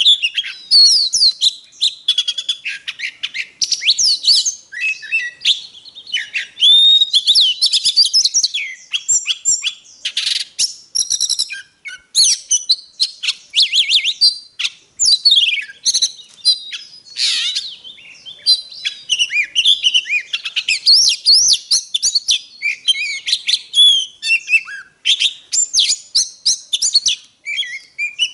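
Oriental magpie-robin in full, excited song: a long, unbroken run of varied whistles, sliding notes, trills and rapid clicking phrases.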